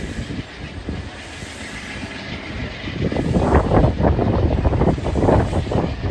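Low rumble of an Amtrak passenger train pulling away. From about three seconds in, louder, choppy gusts of wind buffet the microphone.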